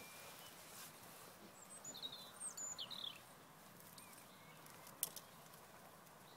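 Faint background hiss with a few short bird chirps about two to three seconds in, and a single sharp click about five seconds in.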